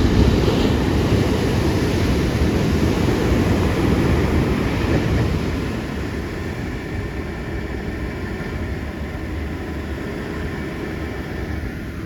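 Ocean surf breaking and washing in, with wind rumbling on the microphone. Loudest in the first half, easing off about six seconds in.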